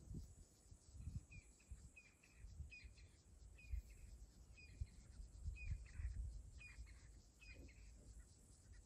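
Faint bird calls: a short chirp repeated about once every half second to a second, a dozen or so times, with faint low rumbles beneath.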